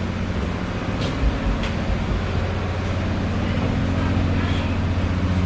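A car ferry's engine running with a steady low drone.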